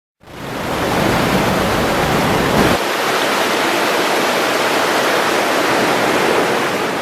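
Loud, steady rush of a waterfall, fading in after silence. A deep rumble underneath cuts out abruptly a little under three seconds in, and the rush carries on.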